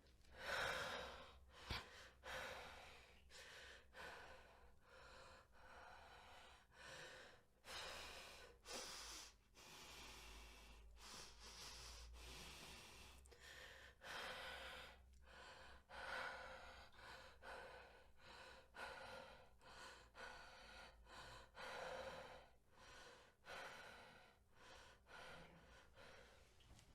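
A woman breathing heavily: a long run of audible breaths in and out, about one a second, some sharper and louder than the rest.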